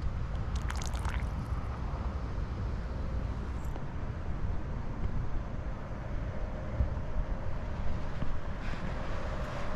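Steady rumble of ocean surf and wind on the beach, with a brief brighter rustle about a second in and a faint steady hum joining about halfway through.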